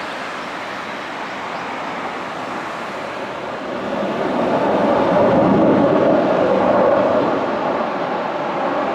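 F-15 fighter jet flying over, its jet engine noise swelling about four seconds in, peaking, then easing slightly.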